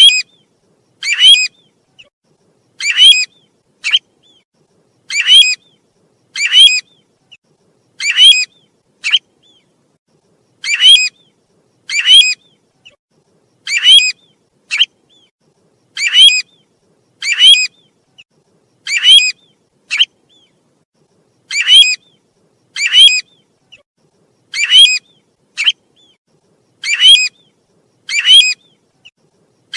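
Calls of the bird known in Vietnamese as 'tu huýt', played as a lure recording. Loud whistled calls repeat about every one and a half seconds in an even, looping pattern, with fainter short notes between some of them.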